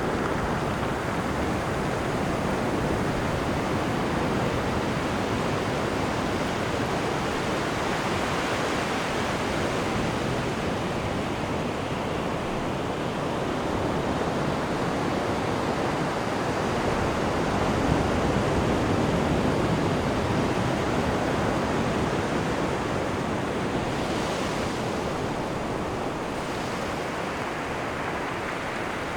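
Steady rush of churning sea water in a cruise ship's wake, swelling slightly a little past halfway.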